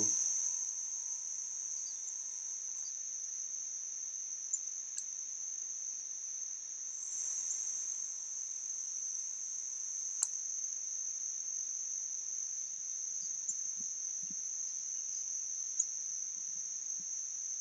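Steady, continuous high-pitched insect chorus, with a few short sharp ticks.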